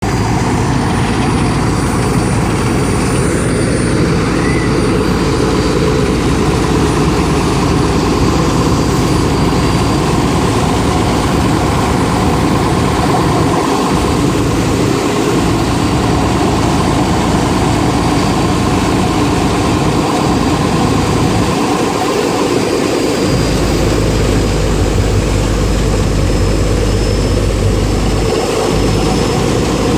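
A ferry's engine running loudly and steadily, with a deep continuous drone that grows heavier for a few seconds near the end.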